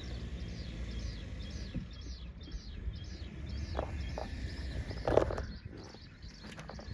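A bird chirping over and over in a steady series of short, high, falling notes, about two or three a second, over a low rumble. A brief thump sounds just past five seconds, with a few faint clicks just before it.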